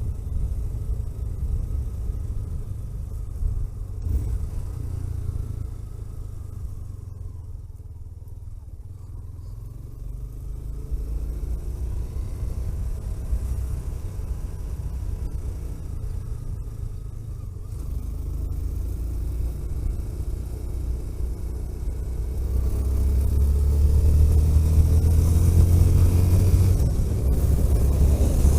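Car engine and road rumble while driving. The engine note eases off, then rises again as the car accelerates, and grows louder near the end.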